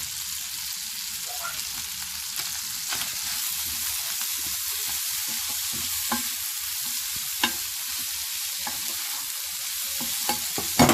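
Chicken and stir-fry vegetables sizzling in oil in a hot pan, a steady hiss, with a utensil knocking against the pan now and then and a quick run of knocks near the end as they are stirred.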